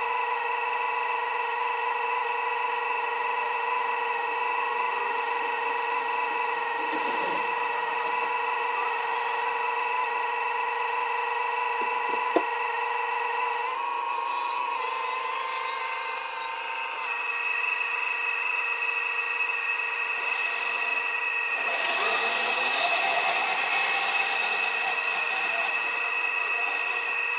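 Earthmoving machine running with a steady high-pitched whine made of several held tones, which shift in pitch about halfway through and again a few seconds later. There is a single sharp click near the middle and a louder hissing rush about two-thirds of the way through.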